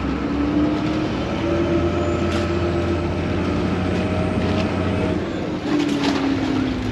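Vaporetto water bus engine running with a steady hum, its pitch dipping slightly near the end, with a few short knocks about two seconds in and toward the end.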